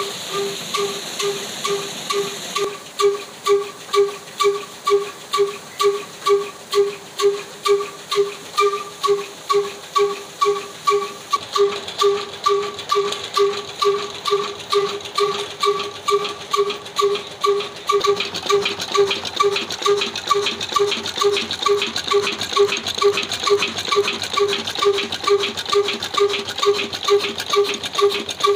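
Old 22 HP black diesel engine running steadily while working a tube-well turbine pump, its exhaust beating evenly at about two to three beats a second, each beat with a ringing tone.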